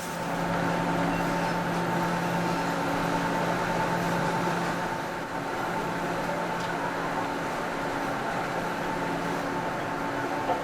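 Steady hum of factory machinery running, with several held tones over a hiss and a short click near the end.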